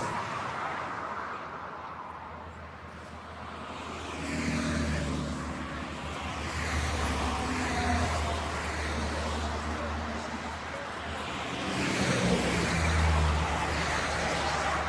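Road traffic: motor vehicles passing, their engine hum and tyre noise swelling about four seconds in and again near the end.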